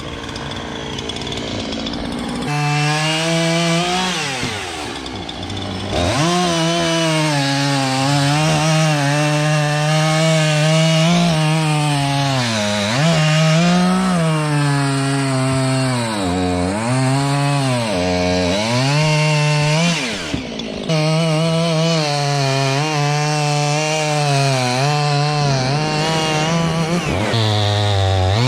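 Chainsaw running at high revs while cutting oak, its pitch sagging and recovering again and again as the chain bites into the wood and the engine is loaded.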